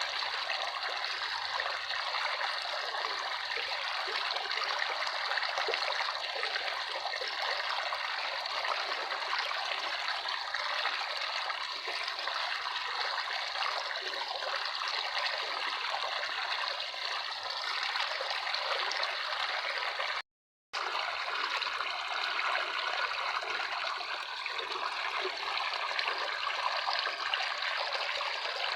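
Running water flowing steadily, an even rushing sound, broken by a split-second gap of silence about two-thirds of the way through.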